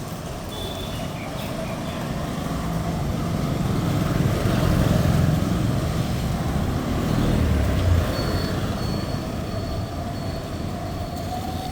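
Road traffic going by close at hand, with a vehicle's low engine rumble swelling in the middle and fading again, and a rising whine near the end.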